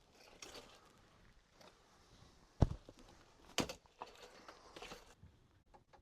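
Scattered knocks and thumps with light rustling, as of someone moving about and handling things in a small camper; the sharpest thump comes about two and a half seconds in, another about a second later.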